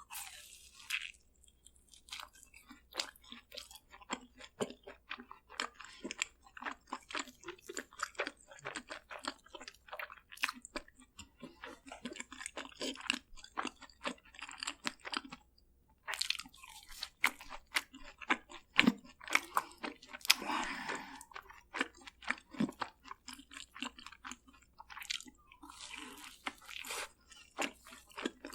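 Close-miked crunching and chewing of crispy fried food, dense quick crackles of the batter breaking between the teeth, with a brief lull just past halfway and louder crunches after it.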